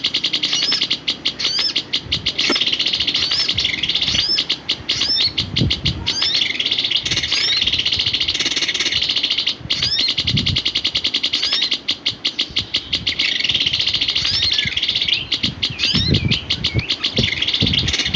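Songbird singing a continuous, rapid chattering song of high notes, with short upswept chirps repeated every second or so. A few low thuds come and go beneath it, mostly near the end.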